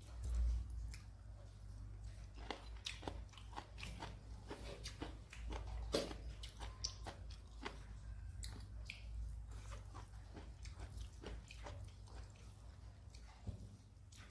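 Close-up mouth sounds of a person chewing and crunching rice with dry-fried bitter gourd and okra: irregular wet crunches and clicks, over a steady low hum.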